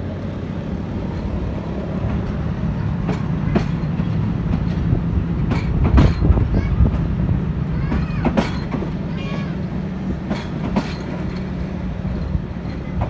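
Passenger train rolling slowly, heard from aboard a coach: a steady low rumble with irregular sharp knocks and clicks of the wheels over rail joints, the loudest about six and eight seconds in.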